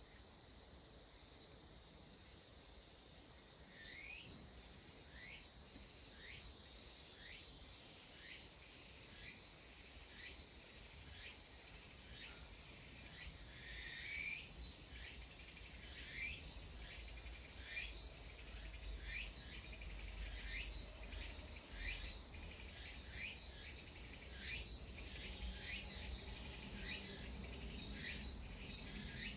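A bird calling over and over in short sweeping chirps, about one a second, beginning a few seconds in.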